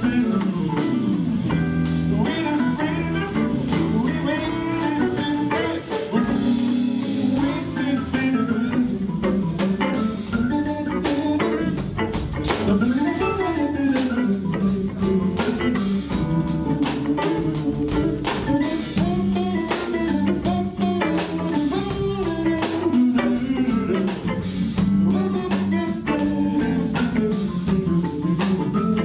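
Live soul-blues band: Hammond B3 organ, guitar and drum kit playing an instrumental passage of a slow ballad, with no singing.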